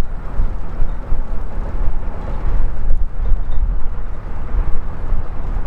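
Wind buffeting the microphone: uneven, gusty low noise that rises and falls.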